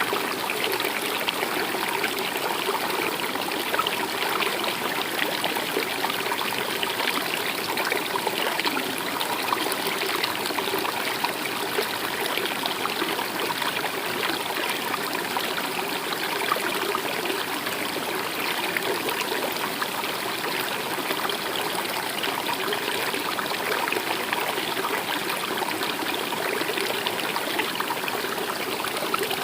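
Stream water running and trickling steadily, with no pauses or changes.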